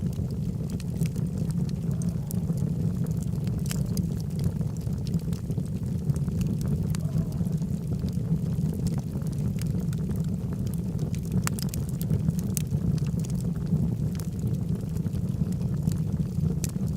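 Logs burning in a fireplace: a steady low rush of flame with scattered sharp crackles and pops throughout.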